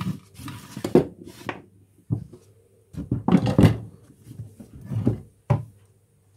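Lightweight pin hammer tapping soft lead sheet flat into a flange: a run of dull, irregular knocks, some coming in quick clusters.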